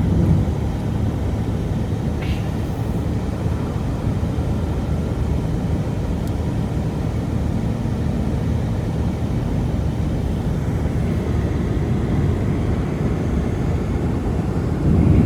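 A steady, loud low rumble of noise with no distinct tones.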